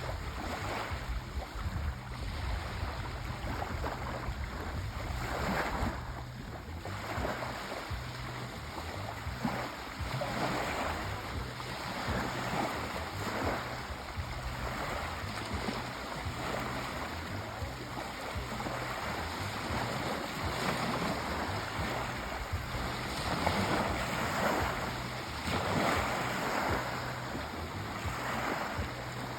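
Sea waves breaking and washing in, swelling and falling every few seconds, with a low steady hum underneath.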